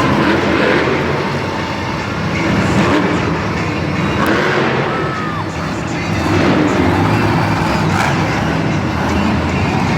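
Monster truck engines running loudly in an arena, mixed with music over the PA system.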